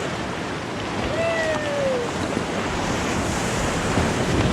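Whitewater rapids rushing steadily around the raft, with wind buffeting the microphone. A person lets out a short falling "woo" about a second in.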